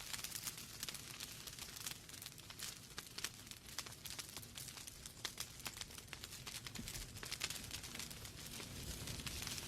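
Wood fire burning in a fireplace: a steady low hiss with many small irregular crackles and pops from the logs.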